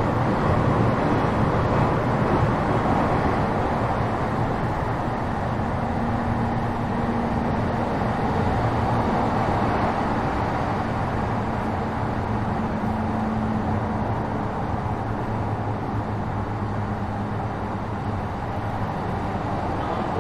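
JR East E233-7000 series electric train running at speed, heard aboard: a steady rumble of wheels on rail with a faint motor hum, easing slightly in level over the stretch.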